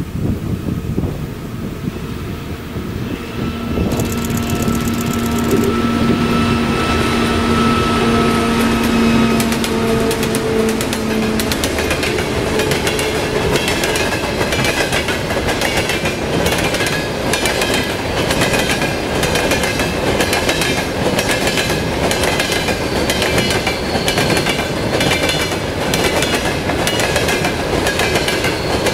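A 2TE25KM diesel locomotive hauling a freight train passes close by with a steady droning tone. After about twelve seconds the hopper wagons roll past with a rhythmic clickety-clack of wheels over the rail joints.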